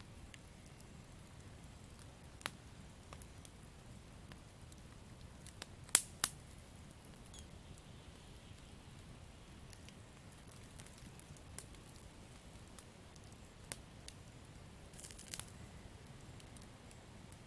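Campfire crackling: sparse, sharp pops of burning wood over a faint steady hiss. The loudest is a pair of pops about six seconds in, with a short cluster of pops near the end.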